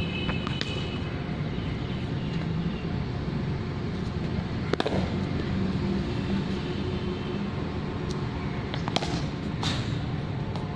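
Sharp cracks of a cricket ball being struck at net practice: a faint one at the start, a loud one about halfway through and two close together near the end, over a steady outdoor rumble.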